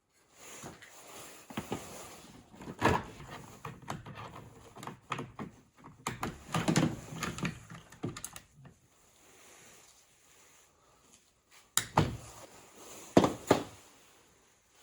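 Irregular knocks, clicks and rattles of hard parts of a Bissell floor scrubber being handled during teardown, with a loud clunk about three seconds in, more around six to seven seconds, a quieter stretch, then two sharp knocks near the end.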